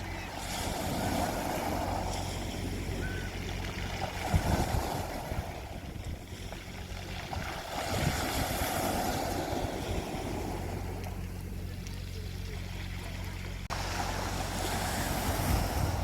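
Sea waves breaking and washing on a beach, rising and falling in several surges over a steady low hum.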